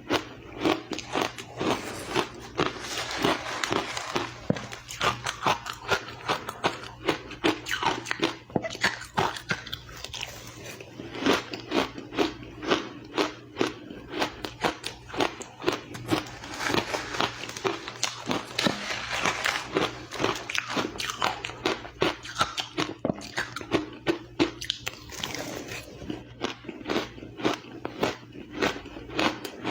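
Ice being bitten and chewed close to the microphone: rapid, repeated crunches, several a second, throughout.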